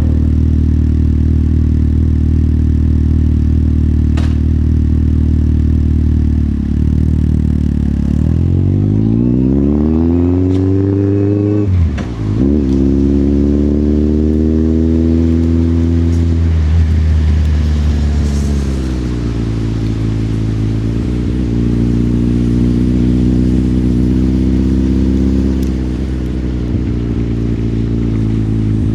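Motorcycle engine idling steadily, then pulling away and revving up through the gears, with a short break in the pitch at a gear change about halfway through. It then eases off and settles back to a lower, steady run.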